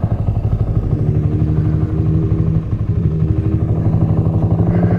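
Honda Grom's small air-cooled single-cylinder four-stroke engine idling steadily, with a fast even pulse.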